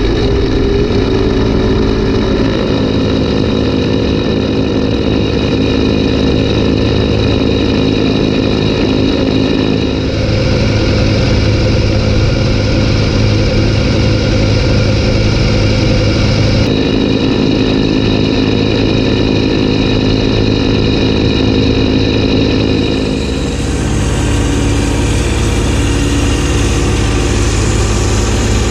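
Kubota B2601 compact tractor's diesel engine running steadily under load while clearing snow with a B2782B snowblower. The sound shifts abruptly about 10, 17 and 23 seconds in.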